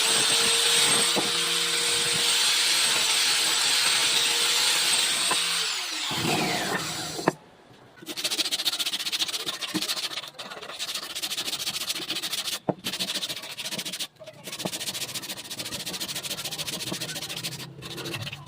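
A woodworking power tool's electric motor runs at a steady pitch, then winds down and stops about six seconds in. After that comes a stretch of fast, uneven rubbing against wood, broken by a few short pauses.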